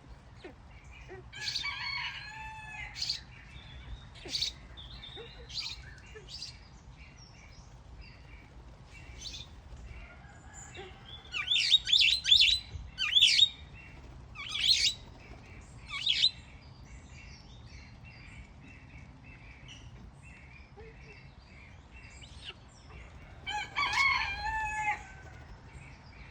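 Grey-headed swamphens calling: loud, harsh calls in three bouts, about two seconds in, a longer run of several calls around the middle, and one more near the end, with short faint chirps between.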